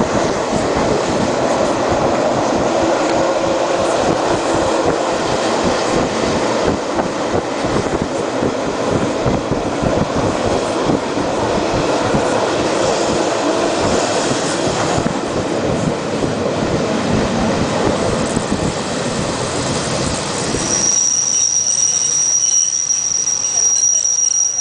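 Passenger train running on rails, a dense steady rumble of wheels and carriage. About 21 seconds in, the rumble thins and a steady high-pitched wheel squeal comes in and holds to the end.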